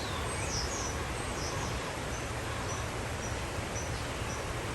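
Small birds calling in woodland: a short high chirp repeated about twice a second, with a few falling whistled notes near the start, over a steady rushing background noise.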